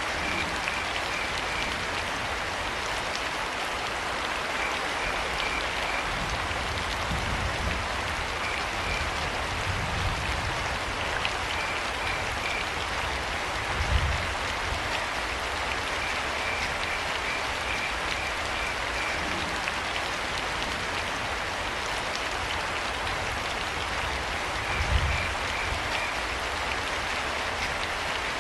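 Steady rain falling, with a cricket chirping in short trains of pulses at one pitch every few seconds. Two brief low thuds stand out, about halfway through and near the end.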